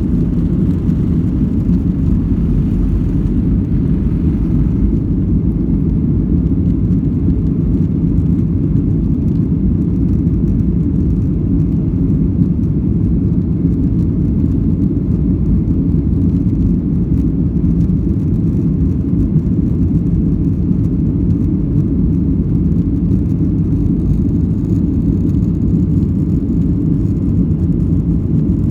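Flydubai Boeing 737 jet airliner heard from inside the cabin after take-off: a steady low rumble of engines and airflow that does not change.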